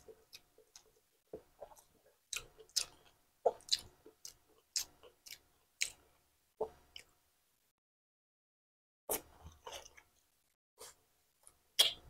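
Close-miked mukbang chewing of a mouthful of pork and rice eaten by hand: repeated wet mouth clicks and smacks, with a pause of about two seconds in the middle.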